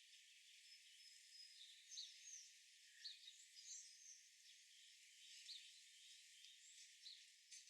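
Faint wild birds chirping: many brief, high chirps and quick call notes scattered throughout, over a steady outdoor hiss.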